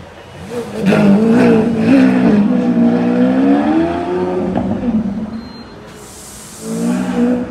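Lamborghini Aventador S's 6.5-litre V12 revving loudly as the car pulls away, its pitch climbing and dipping with the revs. It fades after about four seconds and rises again briefly near the end.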